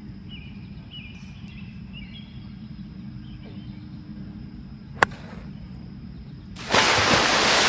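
Golf club striking a ball: one sharp click about five seconds in, over quiet outdoor background with birds chirping. Near the end a loud steady rushing noise sets in.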